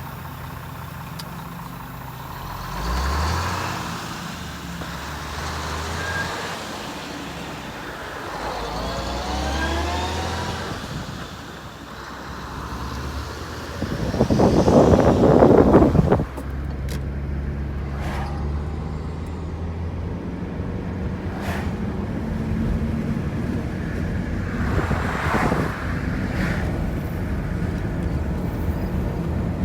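Truck engine running on the road, its pitch rising a few times as it pulls through the gears. A loud rushing burst lasts about two seconds about halfway through.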